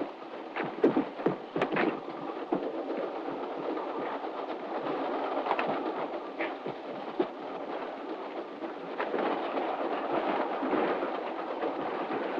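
A steady rushing rumble of a train running, as heard on an old, noisy film soundtrack, slowly growing louder. Several sharp knocks come in the first two seconds, with a few more later.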